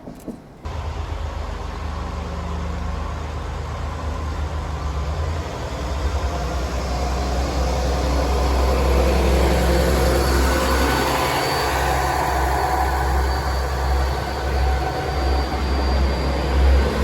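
A large vehicle engine running with a deep, steady rumble, starting abruptly about a second in and growing gradually louder.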